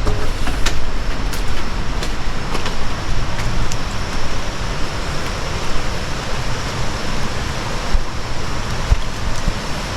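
Steady rush of flowing water from a river and waterfall, with a few light clicks in the first few seconds.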